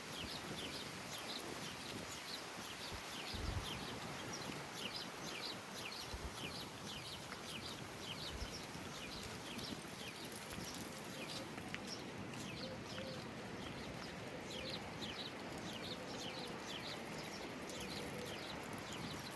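Small birds chirping: many short, high notes, each falling quickly in pitch, coming irregularly throughout, over a steady background hiss. A few brief low thumps come in the first half.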